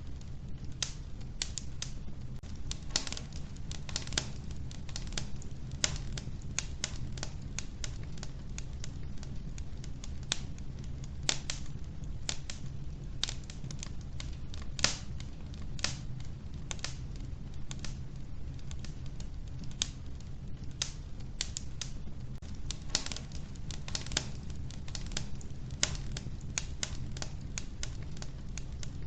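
Logs burning in a wood-burning stove: irregular sharp crackles and pops, several a second, over a steady low rumble of the fire.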